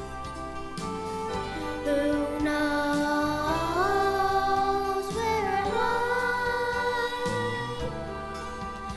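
A song sung with instrumental accompaniment: long held vocal notes that slide up and down in pitch over a steady backing.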